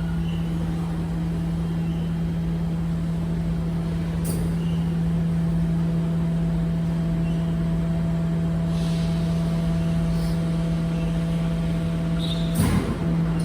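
Garbage truck running with a steady, unchanging hum, a short hiss about nine seconds in and a few sharp knocks near the end.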